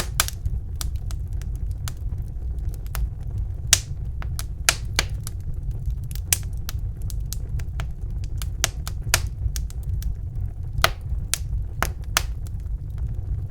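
Wood fire crackling in a fireplace: sharp irregular pops and snaps over a steady low rumble of the flames.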